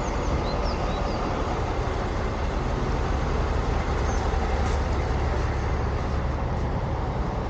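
City street traffic: a steady low rumble of passing vehicle engines and tyres, swelling slightly mid-way. A few faint high chirps sound in the first second.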